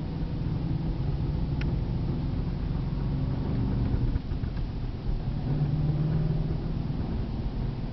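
2011 Cadillac CTS-V's supercharged 6.2-litre V8 and road noise while driving, heard from inside the car; the engine's pitch shifts up and down as speed changes, with a small click about a second and a half in. It runs quietly with no unusual noises.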